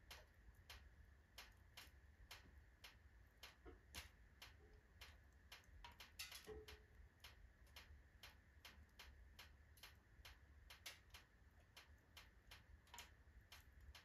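Faint crackling of a wood fire of alder and oak logs in a fireplace stove: irregular sharp pops and ticks, several a second.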